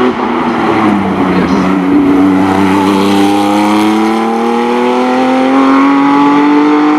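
Porsche race car engine accelerating hard: the note dips with a gear change about a second in, then climbs steadily in pitch through the next gear for several seconds.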